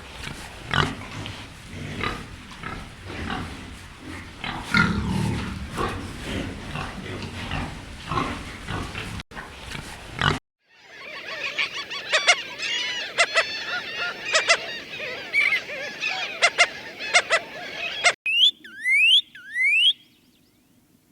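A series of animal calls from different clips. Low calls run for about ten seconds. After a short break comes a busy stretch of high chirping calls with sharp clicks, which ends in three or four quick rising whistles.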